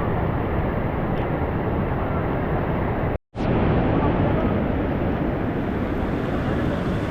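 Steady roar of floodwater rushing out through the open gates of a dam. The sound cuts out completely for a moment about three seconds in.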